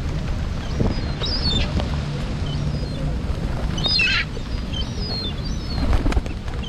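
Seagulls and other birds calling, with short cries scattered through and a longer, busier call about four seconds in, over a steady low rumble.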